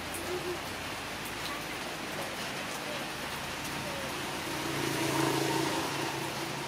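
Steady rain-like hiss throughout, with faint voices rising about five seconds in.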